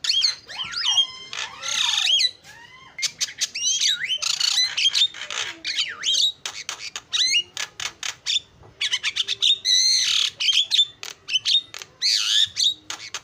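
Javan myna singing a busy, varied song: squawks mixed with swooping whistled slides, and a quick run of clicking notes through the middle.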